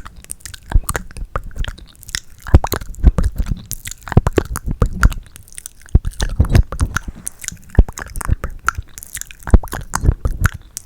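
Close-miked ASMR mouth sounds: wet clicks, smacks and kissing noises made with the lips and tongue, in quick irregular runs.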